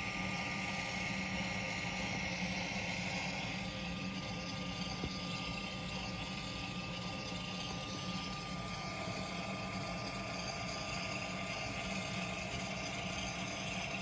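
Electronic sound system of an MTH O-gauge Climax model steam locomotive (Proto-Sound 3.0) playing a steady idling hiss and hum through its small speaker, with a thin high whine that fades out about two thirds of the way through.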